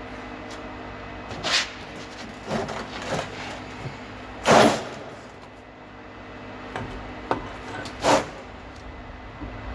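Scattered knocks and clunks of tools and parts being handled during suspension work, five or so strikes with the loudest about halfway through, over a faint steady hum.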